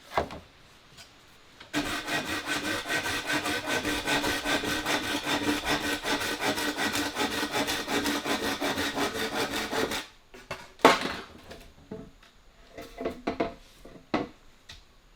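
A saw cutting wood in quick, even strokes, about five a second, for some eight seconds before it stops. A sharp knock and a few lighter knocks follow.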